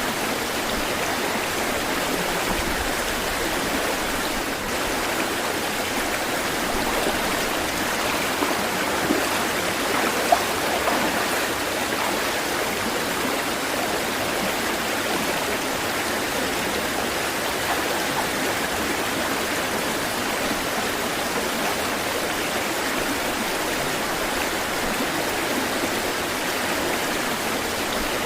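Running water, a stream or small waterfall, rushing steadily and evenly, with two brief louder splashes around a third of the way through.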